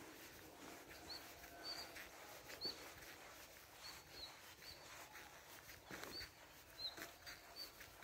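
Birds chirping faintly: short high chirps, about ten of them at uneven intervals, with a few soft knocks and ticks between them.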